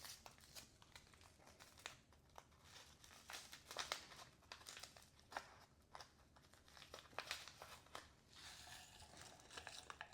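Quiet crinkling and crackling of plastic ration packets being handled and torn open, a scatter of sharp crackles through the whole stretch.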